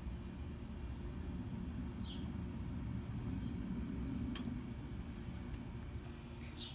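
Outdoor ambience: a steady low rumble with two short, high bird chirps and a single sharp click.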